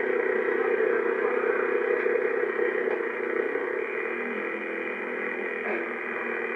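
A steady mechanical drone mixed with noise, easing slightly about four seconds in.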